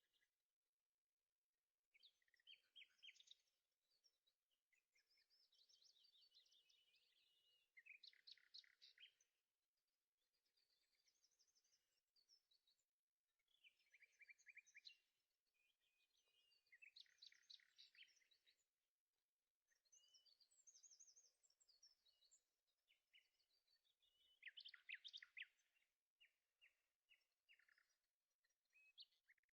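Faint birdsong: bursts of chirps and quick trills every few seconds, with short pauses between phrases.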